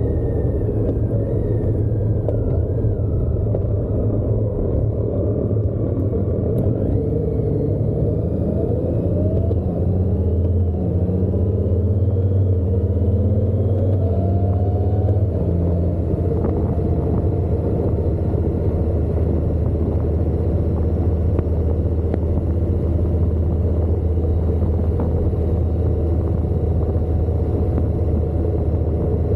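Motorcycle engine and road noise while riding. The engine note rises and drops back several times as it shifts up through the gears, then holds steady at cruising speed.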